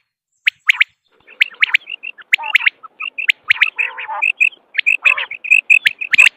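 Quail calling: short, sharp, high-pitched notes, a few spaced ones at first, then after about a second a dense run of calls several a second, with a few lower raspy notes mixed in.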